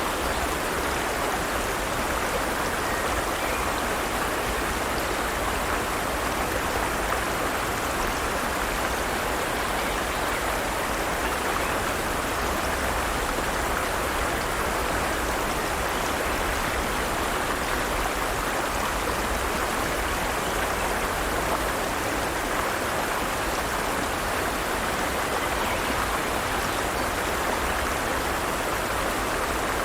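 Forest stream flowing steadily over rocks, a constant rushing babble of running water.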